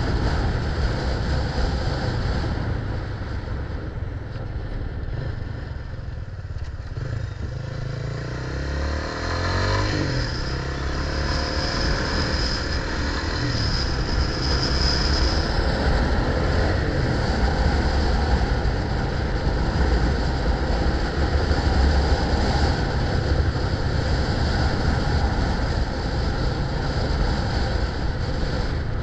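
Road noise heard while riding: motor vehicle traffic with a steady low rumble, and an engine changing pitch about eight to ten seconds in.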